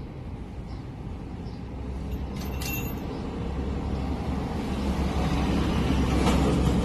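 A low, steady engine rumble that grows louder, with a brief sharp click about two and a half seconds in.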